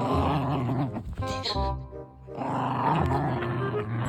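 A dog growling in rough bursts over background music.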